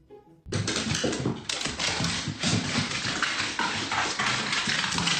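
A dog vocalizing loudly, a dense noisy run of sounds that starts abruptly about half a second in.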